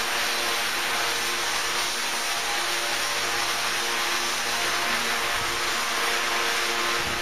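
Steady factory-floor machine noise: an even hiss with a few faint steady hums beneath it.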